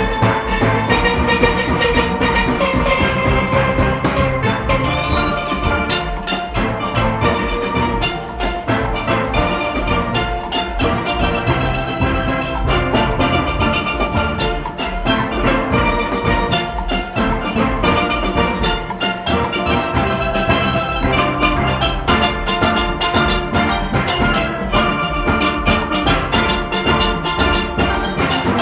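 Steel orchestra playing live: a full steelpan band with many pans sounding rapid melodic runs over drums and percussion.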